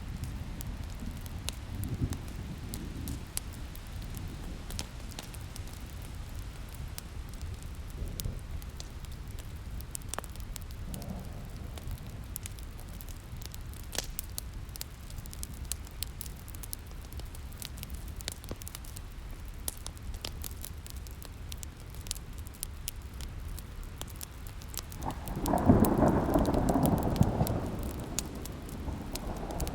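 Wood fire crackling with scattered sharp pops, over a steady low rain hiss and distant thunder. About 25 seconds in, a loud roll of thunder rumbles in and carries on to the end.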